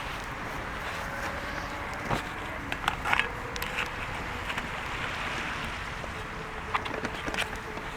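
Wood fire crackling, with a few sharp pops about two, three and seven seconds in, over a steady rushing background that swells and eases.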